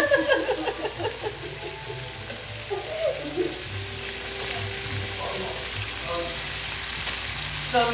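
Food frying, a steady sizzle.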